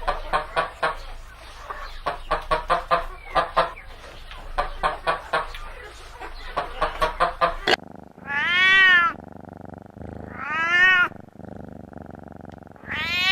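Domestic cat meowing: three long meows, each rising then falling in pitch, in the second half. They follow an abrupt cut from a rapid string of short clipped calls in quick bursts.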